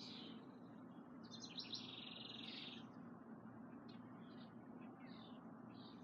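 Small songbirds calling faintly: a series of short chirps, and about a second in a rapid trill lasting about a second and a half.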